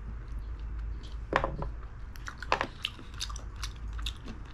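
A person chewing a mouthful of food, with many short, scattered wet clicks of the mouth; two louder ones come about a second and a half and two and a half seconds in.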